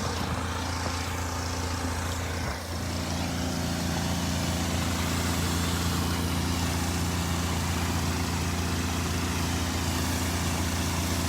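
Car engine idling steadily, heard from inside the cabin: a constant low hum with a few steady tones that settle about two and a half seconds in.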